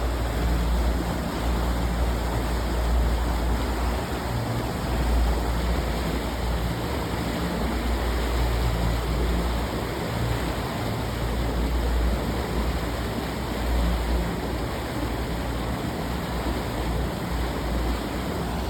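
Steady rush of wind and water from a boat under way, with uneven low rumbling of wind buffeting the phone's microphone.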